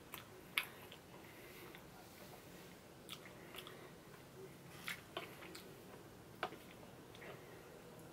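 Faint close-mic eating sounds from a person eating ice cream cake: soft chewing and mouth smacks, with a handful of short, sharp clicks scattered through.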